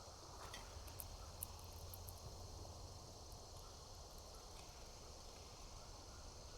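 Faint steady chorus of insects, with a few faint short ticks in the first two seconds.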